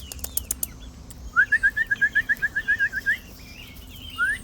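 Person whistling a call to chickens: a rising whistle, then a quick run of about a dozen short repeated notes, about six a second. A second call starts near the end. The whistle is the signal to the chickens that they may come into the yard.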